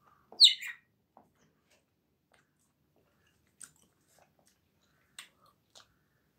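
A person chewing and biting food, with a few faint, brief crackles from a plastic bag. About half a second in there is one short, loud, high-pitched sound that falls in pitch.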